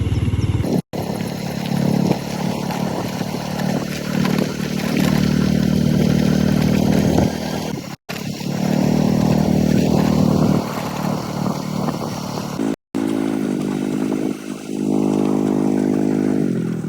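Small motorcycle engine running under load, its pitch shifting up and down, broken by three very short silent gaps.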